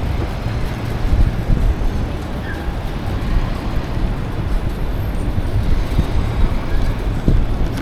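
City street traffic noise: a steady rumble with no distinct events standing out.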